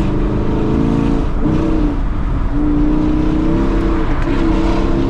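Tuned car's engine running under load while driving, its pitch climbing and dropping back about twice as the revs change.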